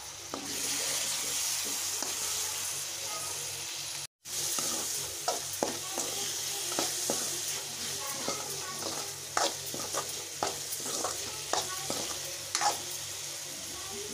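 Chopped tomatoes and onion-masala sizzling in oil in a metal kadhai. A steady sizzle comes first; from about five seconds in, a spoon stirring the mixture scrapes and clicks repeatedly against the pan.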